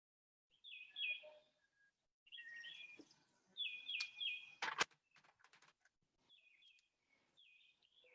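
Songbirds chirping faintly, repeating short quick phrases again and again. About halfway through come a few sharp clicks, the loudest a single knock just before the five-second mark.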